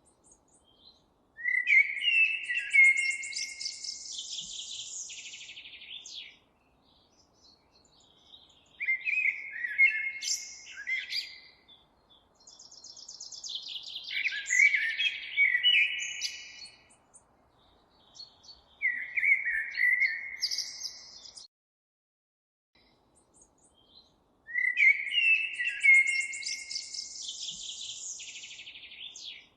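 A songbird singing, five song phrases of a few seconds each with short pauses between them; each phrase opens with sharp, clear notes and runs into a thin, high, buzzy trill.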